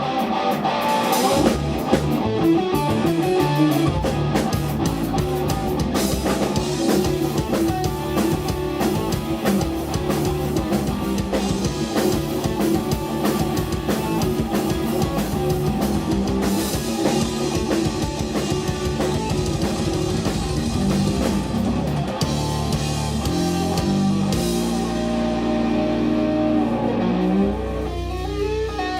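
Live instrumental rock from a guitar, bass and drum kit trio: electric guitar over steady drumming, the band playing continuously, easing into held low bass notes near the end.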